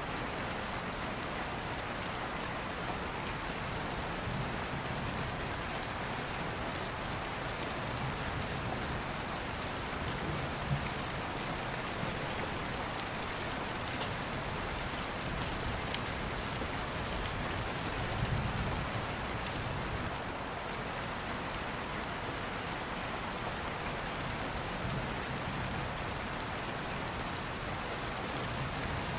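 Steady rain falling, with soft low rumbles of distant thunder swelling now and then, the strongest about two thirds of the way through.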